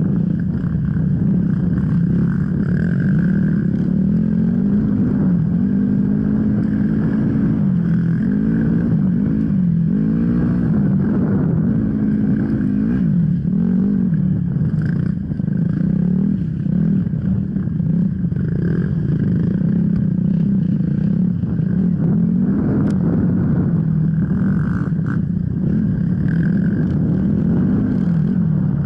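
Off-road enduro motorcycle engine running hard, its pitch rising and falling over and over as the throttle opens and closes.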